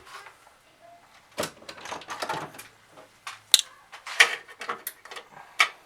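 Hand-held wire cutters snipping through wire leads several times in a row: sharp clicks a second or two apart, with rustling and clatter of the wires and tool being handled.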